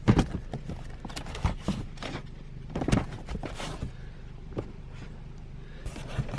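Books and boxes being handled and rummaged through: irregular knocks, thuds and rustles of paperback books and cardboard, over a steady low hum.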